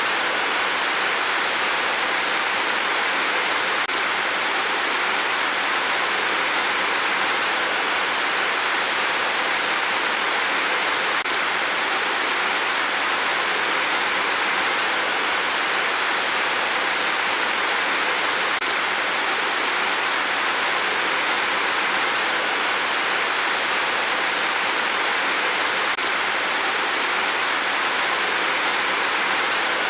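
Steady rain, an even, unbroken hiss with no single drops or changes in strength.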